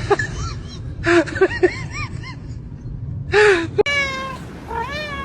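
A cat meowing: several short meows over the first few seconds, then, after an abrupt break about four seconds in, longer meows that slide down in pitch.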